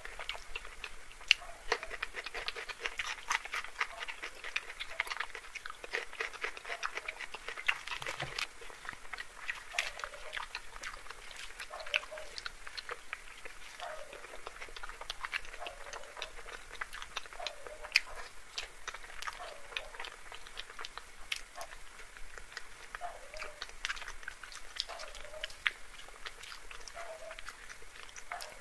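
Close-miked chewing and wet mouth smacking of someone eating luchi with dum aloo curry: a steady run of soft, wet clicks without any speech.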